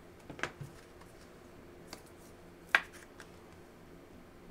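Trading cards being handled: a couple of soft clicks in the first second, then one sharp click a little before three seconds in.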